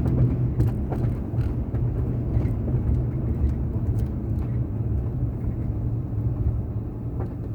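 A car driving at a steady pace: a low engine hum under the tyres' road noise.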